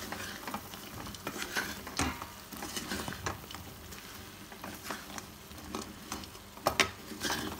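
Fried chicken 65 pieces being stirred through spice masala in a pan over low heat: irregular scrapes and clicks of stirring over a faint steady sizzle, a few louder scrapes near the end.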